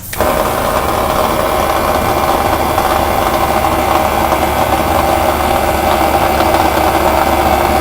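Small air compressor of an airbrush-style air gun switched on and running steadily, with a buzzing rattle from paint vibrating on the surface next to it.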